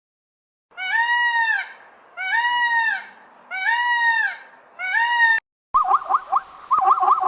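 Four drawn-out, arching animal calls about a second apart, then, after an abrupt cut, a different animal's rapid run of short, chattering calls with a few clicks.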